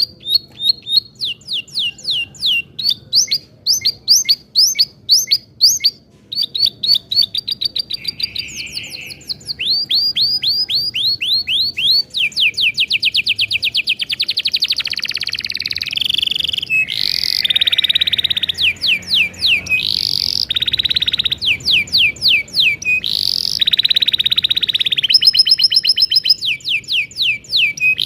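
Domestic canary singing one long unbroken song: fast trills of repeated falling notes that switch to a new phrase every second or two, with buzzier rolling passages in the second half.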